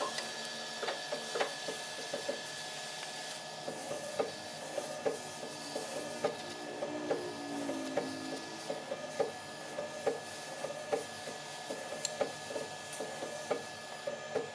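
Woodworking by hand: irregular light taps and scrapes on wood, about one or two a second, over a steady machine hum.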